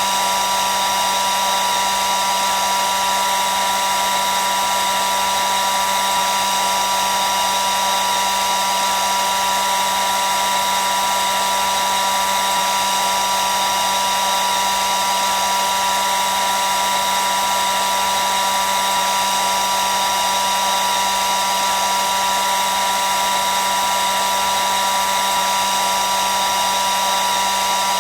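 Hair dryer running continuously: a steady whoosh of blown air with a constant motor whine, unchanging in pitch and level.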